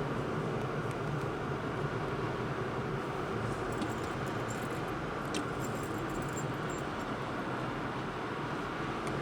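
Steady rumble of a car being driven, engine and road noise with no change in speed, and a few faint clicks and ticks about four to six seconds in.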